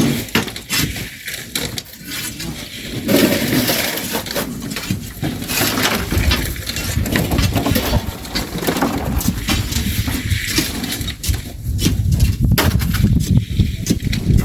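Hand shovels digging into sand and stones and throwing them into a truck, with irregular scrapes, knocks and clinks.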